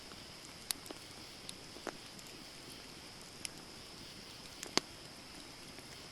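Wood campfire crackling: a steady soft hiss with scattered sharp pops, about six of them, the loudest a little under five seconds in.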